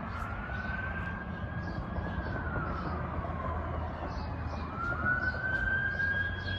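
Ambulance siren in its wail pattern: a slow rise, a long fall, then a rise again about two-thirds of the way in, over a low traffic rumble.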